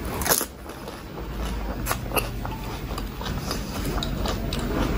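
A whole pani puri (golgappa) crunched in the mouth, its thin fried shell breaking loudly about a third of a second in, followed by wet chewing with scattered small crunches.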